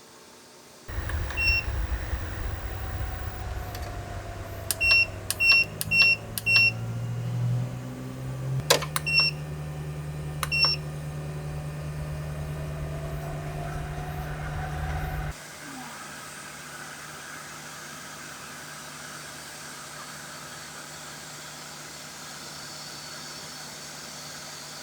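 A vehicle engine running with a low rumble, with short electronic beeps from buttons being pressed, singly and then four in quick succession. The rumble cuts off abruptly about fifteen seconds in, leaving a steady airflow hiss.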